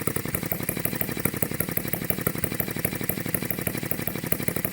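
Stirlingkit HM-01 model hit-and-miss engine running steadily with a rapid, even beat, its oil cup and piston oiler already run dry.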